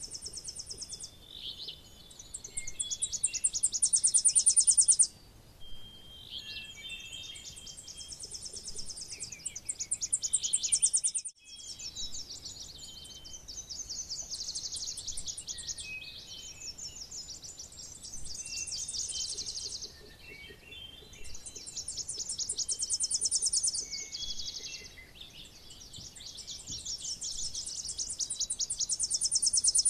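Tennessee warbler singing: a run of very rapid, high, dry chips that grows louder toward its end, repeated about six times with short pauses between. Fainter chirps of other birds are heard underneath.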